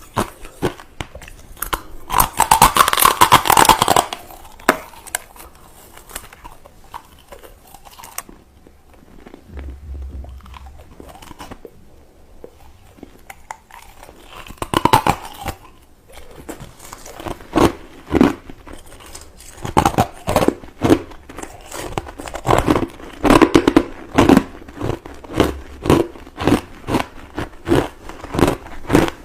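A person biting into crushed ice, close to the microphone. It gives two dense bursts of crunching, about two seconds in and again around fifteen seconds. From about twenty seconds it settles into steady chewing crunches, roughly two a second.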